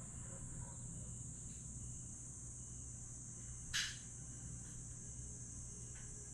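Night chorus of grass insects (crickets) keeping up a steady high shrill over a low steady hum. A single brief sharp sound stands out a little under four seconds in.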